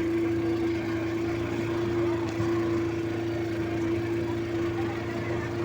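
Boat engine running steadily, a constant drone with one strong steady tone over a low hum.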